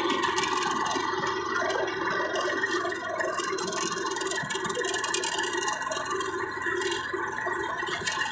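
Massey Ferguson tractor's diesel engine running with a steady drone.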